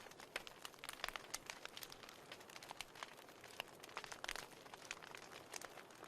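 Wood fire burning in a fireplace, with irregular sharp pops and crackles over a faint steady hiss.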